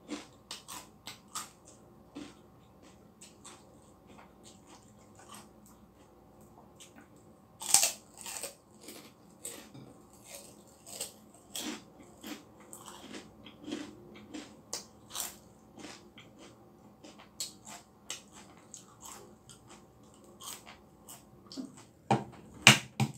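Chewing and crunching of crisp food, with scattered short crackles throughout. Near the end come two sharp knocks as the shell of a balut egg is cracked open.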